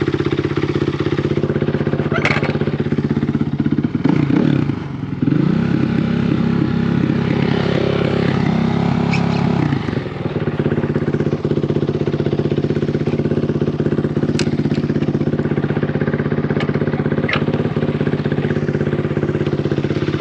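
Single-cylinder four-stroke off-road engine running at steady throttle while riding. The revs dip and climb again about four to five seconds in, then ease off around ten seconds in, with a few brief sharp clicks later on.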